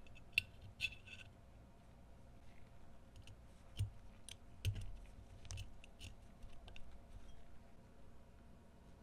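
Irregular light clicks and a few dull knocks of small metal pistol parts being handled and worked at the bench.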